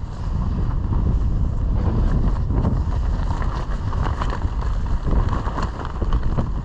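Strong gusting wind buffeting the microphone in a steady low rumble, with scattered short ticks.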